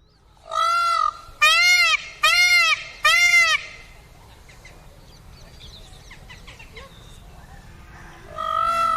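Indian peacock calling loudly: one longer call, then three short calls about a second apart, each a single note that rises and falls; after a few seconds' pause another call starts near the end.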